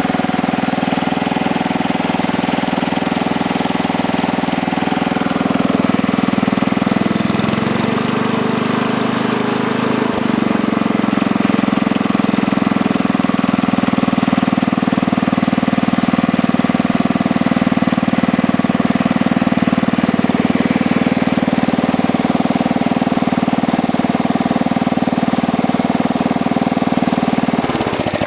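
Sears ST10 garden tractor's engine running steadily while warming up after a cold start. Its note shifts briefly about eight seconds in, and it starts to die away right at the end.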